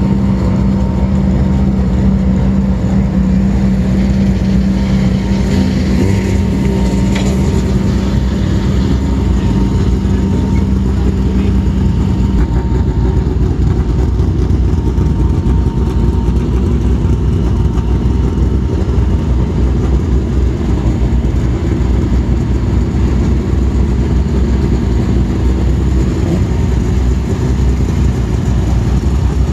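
Renault Clio rally car's four-cylinder engine idling, a steady low engine sound with no revving. A steady hum from another machine stops about twelve seconds in.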